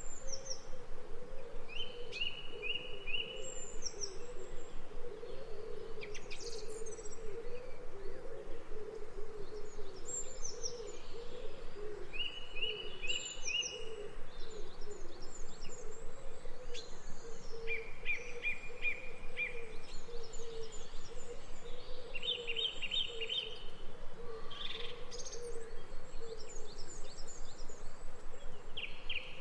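Several songbirds singing: short trills of evenly spaced notes every few seconds, mixed with higher chirps. Under them runs a continuous low wavering drone.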